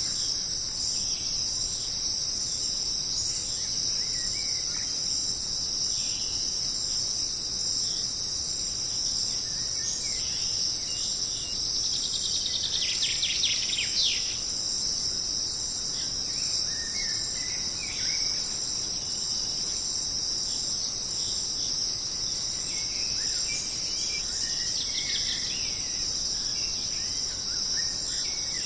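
Jungle insect chorus: a steady, high-pitched shrilling of crickets or cicadas, with scattered short bird calls beneath it and a brief rapid rattling trill a little before halfway.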